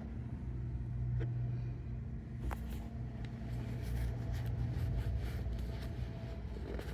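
A low, steady engine-like hum, with a few light knocks and taps of plastic jugs being handled.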